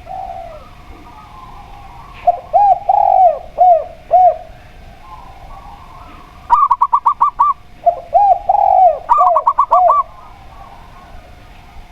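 Zebra dove and spotted dove cooing in two phrases. Each phrase pairs a few low, arched coo notes with a quick run of six or so higher, clipped notes.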